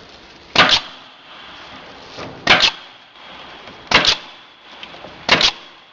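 Four loud knocks, about a second and a half apart, each a quick double strike followed by a faint metallic ring.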